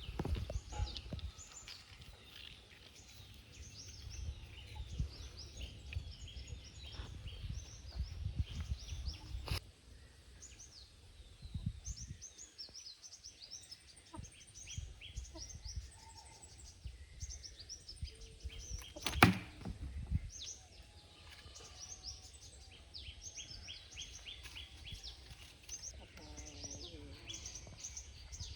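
Small birds chirping over and over in quick, high, falling notes, with a low rumble and a few sharp knocks, the loudest about nineteen seconds in.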